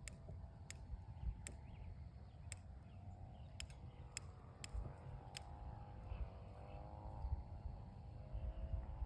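Wood campfire crackling, with sharp single pops every half second to a second during the first five seconds, over a low rumble. A faint wavering tone runs underneath from about three seconds in.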